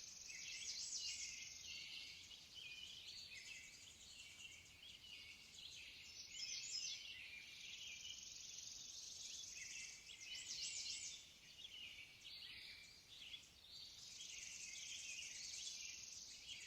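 Faint birdsong: several small birds chirping in a steady, dense stream of short high-pitched calls.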